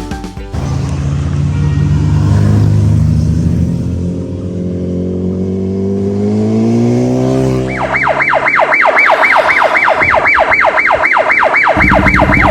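A vehicle engine running, its pitch climbing as it revs up. From about two-thirds of the way in, a siren warbles rapidly up and down, about four cycles a second. A low steady buzz joins it near the end.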